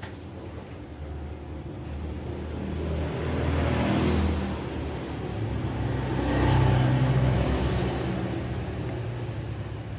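Motor vehicles passing by: a low rumble that swells and fades twice, louder the second time around six to seven seconds in.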